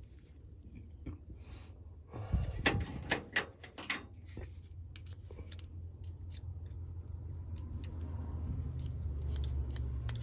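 Small metal carburettor parts being handled on a bench: light clicks and clinks, with a cluster of sharp clicks about two to four seconds in. A low steady hum underneath slowly grows louder.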